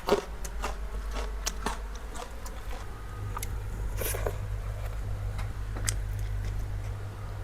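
Close-miked eating sounds: chewing with scattered wet clicks and lip smacks, over a steady low hum.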